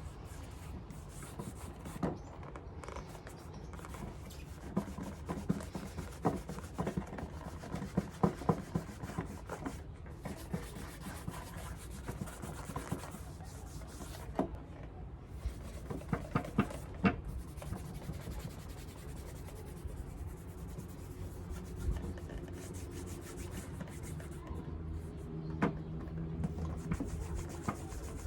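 Leather shoe being hand-polished: quick back-and-forth rubbing strokes on the leather upper, with louder scratchy passes now and then.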